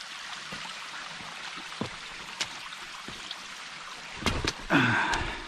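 Creek water flowing over rocks, a steady rushing hiss. Scattered light knocks run through it, and a louder burst of noise comes about four and a half seconds in.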